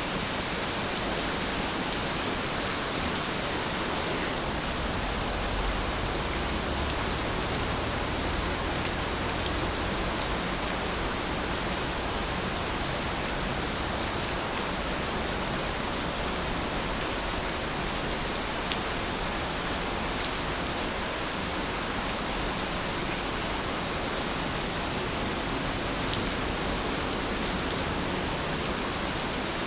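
Steady rain falling: a dense, even hiss with an occasional single drop ticking out of it. A soft low rumble swells briefly about a third of the way in.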